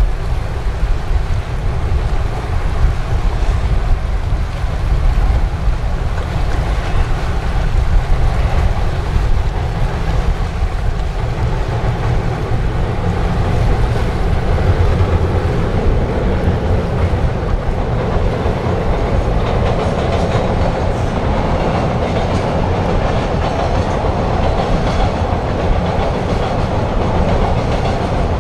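JR Freight EF65 electric locomotive hauling a container and tank-car freight train across a long railway bridge, the wagons rolling on the rails and growing louder through the second half as the train draws nearer. Strong wind buffets the microphone.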